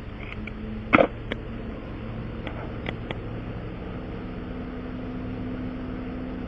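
A small motor humming steadily, its pitch stepping slightly higher partway through, with a sharp click about a second in.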